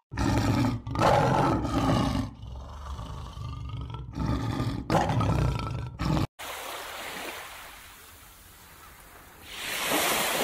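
Leopard roaring and growling in several loud, rasping bouts, which cut off suddenly about six seconds in. After that comes a steady rush of surf that swells near the end.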